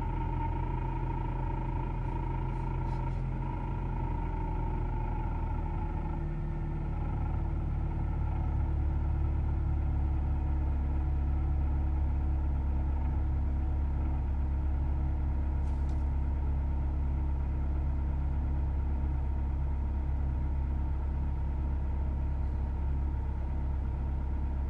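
Ford Mondeo Mk4 2.3 Duratec four-cylinder running just after a start at −21 °C, with its hydraulic power-steering pump humming in the frozen fluid. The pump's high whine fades out about six seconds in, as the idle note dips slightly and the low engine rumble grows steadier.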